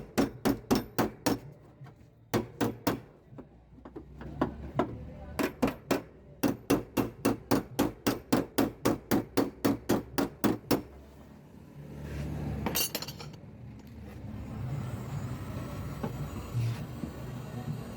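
Light, rapid hammer taps on a car door's sheet-metal panel, about four a second in several runs, as dents are knocked down in dry denting. The tapping stops about eleven seconds in, giving way to a low rumble.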